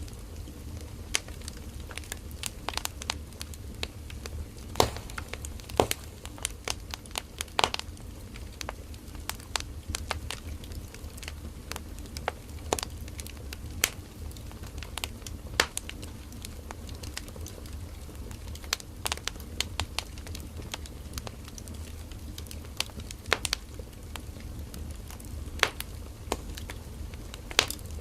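Firewood burning in a campfire, crackling with irregular sharp pops and snaps over a steady low rumble of the flames.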